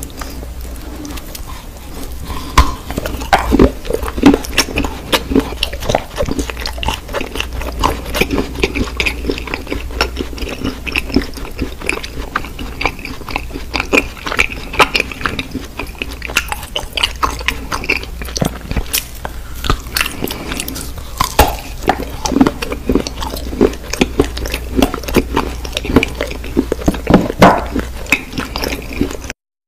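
Close-up mouth sounds of a person biting and chewing soap-shaped pieces: a dense, irregular run of clicks and smacks over a low steady hum.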